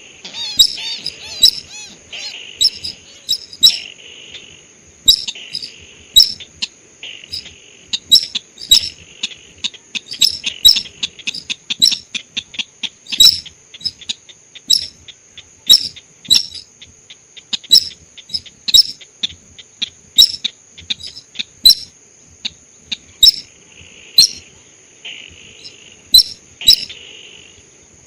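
Lure-call recording of the sintar sawah bird: a run of short, sharp chip notes, a few each second, with buzzy trills near the start and again near the end. A steady thin high whine runs underneath.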